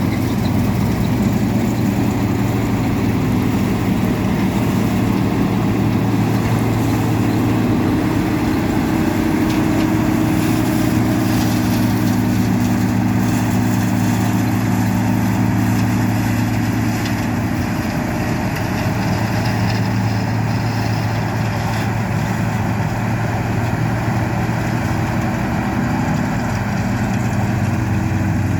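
Heavy farm machine's engine running steadily at a constant speed during soybean harvesting, with a continuous low hum.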